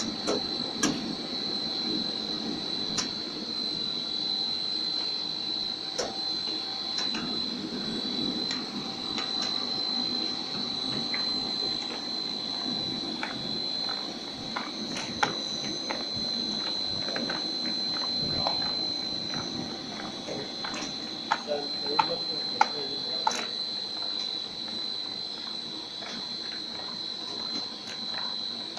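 PP corrugated pipe extrusion machine running: a steady high-pitched whine over a low rumble, with scattered sharp clicks.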